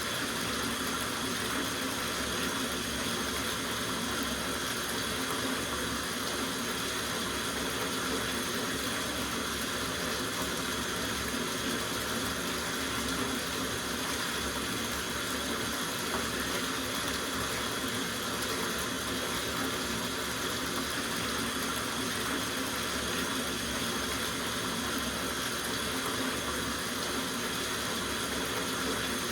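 Tap water running steadily into a soaking bathtub, a constant even rush of splashing water.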